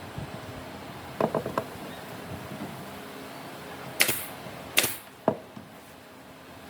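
A quick rattle of clacks, then three sharp knocks a little under a second apart over a steady hiss.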